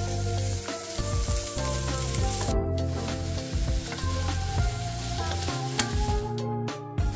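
Shallots and mushrooms sizzling in oil in a frying pan as they are stirred, the sizzle breaking off briefly twice. Background music plays under it.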